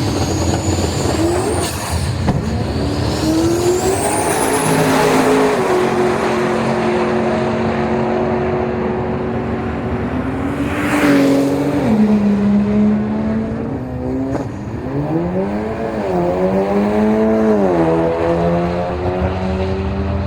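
Drag-racing car engine under hard acceleration, its pitch climbing and then stepping down at each gear change, several times over. Two rising high-pitched whines in the first few seconds, and a short loud whoosh about eleven seconds in.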